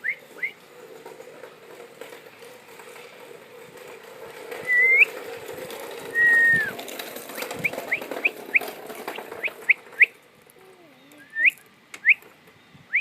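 A person whistling short upward-sweeping notes, with a longer falling whistle about six seconds in and then a quick run of short rising notes, the whistling that gets a baby bird to open its mouth for food.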